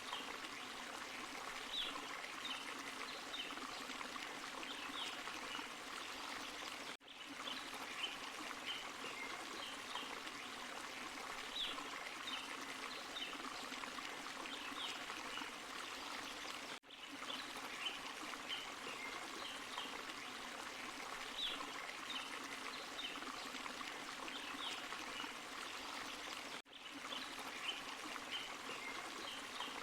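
Forest stream and small waterfall running steadily, water pouring and trickling over rocks. The sound cuts out for an instant three times, about every ten seconds.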